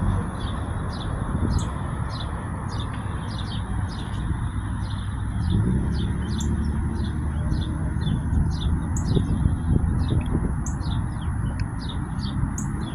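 Many small birds chirping over and over, short high chirps several a second, over a steady low rumble.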